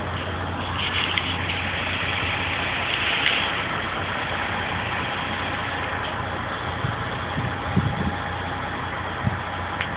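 Fire truck's diesel engine idling steadily, a constant low hum and rumble, with a few short knocks near the end.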